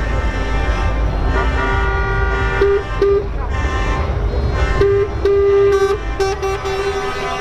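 Truck horns honking in a series of short and longer blasts over the low rumble of truck engines.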